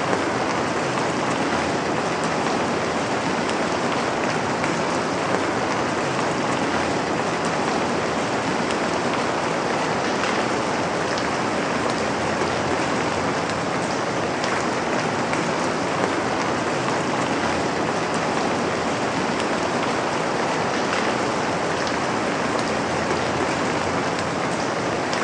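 Steady rain falling on a surface, an even dense hiss with faint scattered drop ticks and no thunder.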